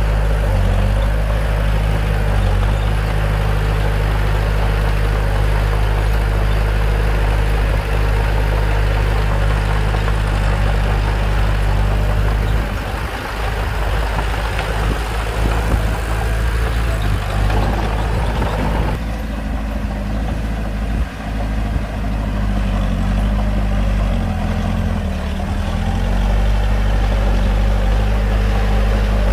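Bulldozer's diesel engine running under load while pushing soil. Its steady low note dips and wavers partway through and again near the end.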